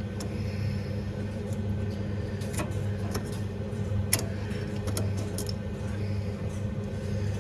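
Scattered light clicks and taps of a washing-machine motor's carbon brush and its holder being handled, the sharpest about four seconds in, over a steady low hum.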